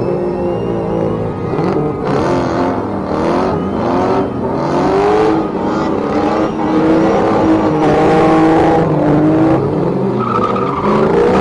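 Drift cars' engines revving up and down hard and repeatedly, with tyre squeal from the cars sliding.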